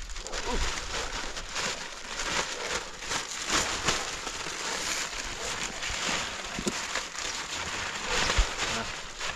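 Plastic sheeting crinkling and rustling as it is handled, a dense crackly noise throughout, with a few short bits of voice and a single knock near the end.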